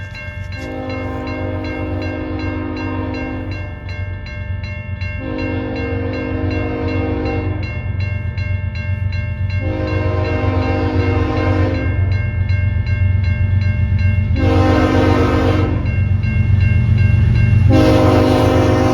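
Train horn sounding five blasts, the fourth shorter and the last held, over the steady low rumble of a train that grows louder throughout.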